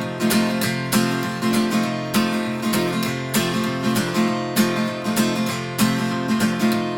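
Acoustic guitar strummed in a steady rhythm, an instrumental passage between sung verses of a song.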